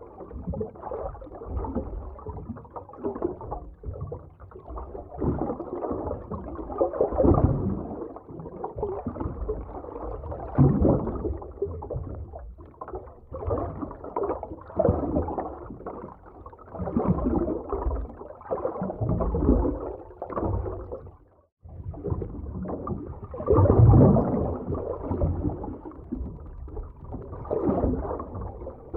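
Underwater ocean ambience: muffled water movement and bubbling, swelling and ebbing in uneven surges, with a brief drop almost to silence about two-thirds of the way through.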